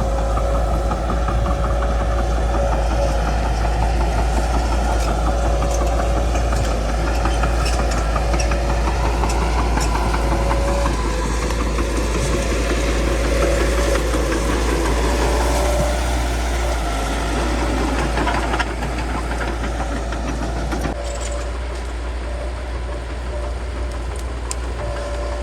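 Bulldozer's diesel engine running steadily, with a deep hum and scattered sharp cracks in the middle. The sound drops a little about three-quarters of the way through.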